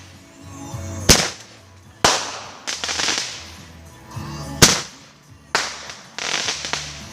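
Consumer fireworks going off: four sharp bangs, the first about a second in and the rest a second or two apart, each followed by a crackling hiss that fades out.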